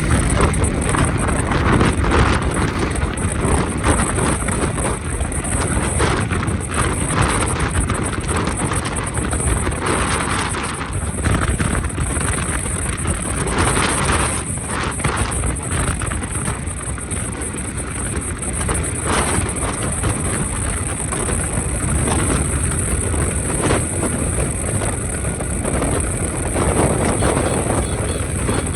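Motorcycle riding at speed along a highway: steady rushing wind buffeting the microphone over road and engine noise.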